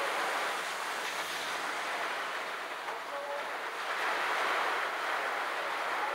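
Heavy rain falling, a steady hiss of noise.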